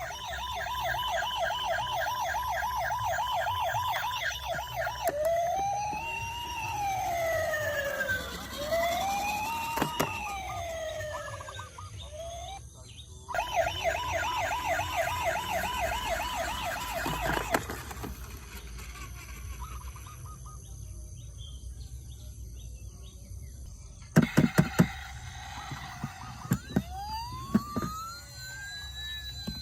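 Electronic emergency-vehicle siren sounds from toy police car, ambulance and fire truck sound modules, switching between a fast warbling yelp and a slow rising-and-falling wail. A few sharp clicks come about two-thirds of the way through.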